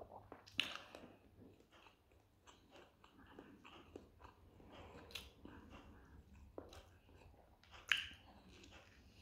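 A person chewing a pljeskavica in a grilled bun, close to the microphone: soft, irregular wet mouth sounds, with a sharp click about half a second in and a louder one near the end as he bites into the bun again.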